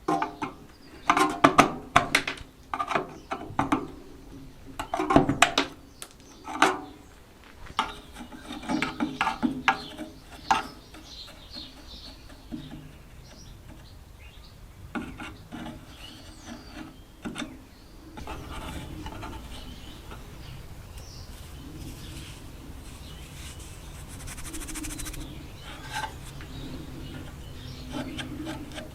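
Hand-tool and parts-handling noise while a 1950s Smiths car heater box is being removed: a burst of knocks and clatters, then slower scraping and rubbing, with a low steady hum coming in about two-thirds of the way through.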